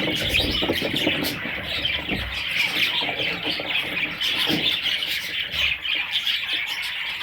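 Several budgerigars chattering at once: a dense, continuous mass of high chirps and warbles with occasional squawks, and a few soft low thumps.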